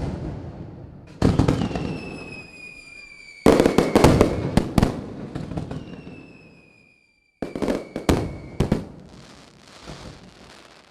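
Fireworks display: aerial shells bursting with sharp bangs that trail off in long rumbling decays, one about a second in, a quick cluster around four seconds in and another near eight seconds. Between the bangs, thin whistles glide slowly down in pitch.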